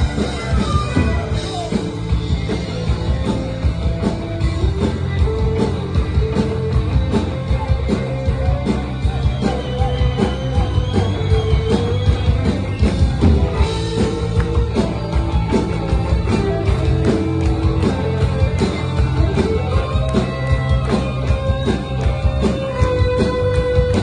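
Rock band playing a song: drums keep a steady, busy beat under bass and guitar, with melodic lines on top.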